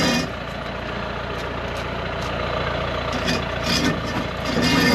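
A heavy vehicle's engine running steadily at low revs.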